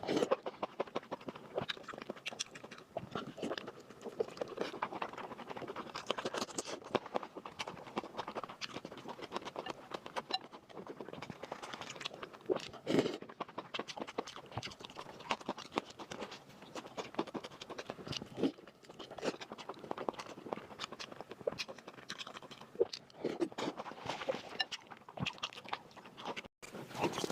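Close-miked chewing and mouth sounds of a person eating, a dense, continuous run of small clicks and smacks.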